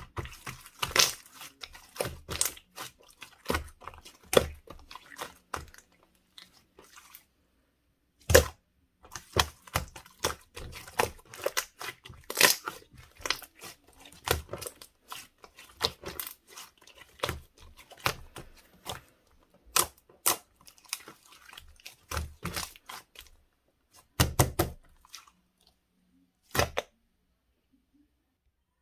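Hands squishing, poking and stretching slime: irregular runs of sharp sticky clicks and pops, with a pause of about two seconds early on and quiet near the end.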